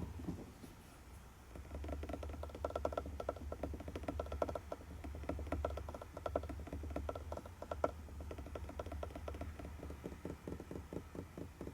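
A fast, dense run of small mechanical clicks with a faint ringing tone, starting about two seconds in, over a low hum.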